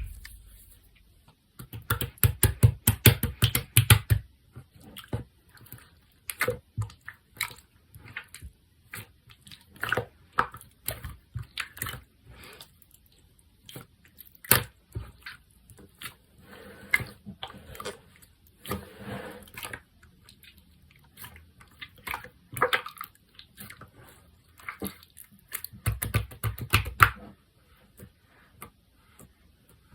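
Clear, jiggly slime being squished and pressed by hand, giving wet clicking and popping sounds in irregular bursts. Denser, heavier squishing runs come about two seconds in and again near the end.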